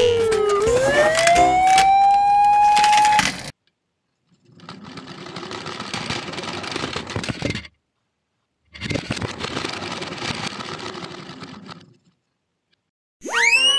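A siren sound effect over music: its pitch slides down, then back up, and it cuts off suddenly about three and a half seconds in. After a short silence come two separate stretches of rough, noisy rumble, each about three seconds long. A quick rising glide starts right at the end.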